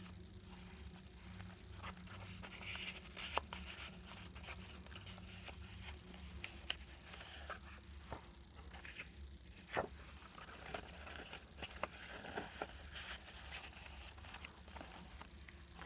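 Faint rustling of paper pages being handled and turned, with scattered soft taps and a couple of sharper clicks about three and ten seconds in, over a low steady hum.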